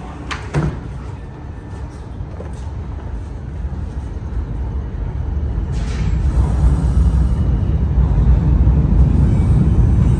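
New York City subway car doors sliding shut with a knock about half a second in, then a low rumble from the train that grows louder from about six seconds in.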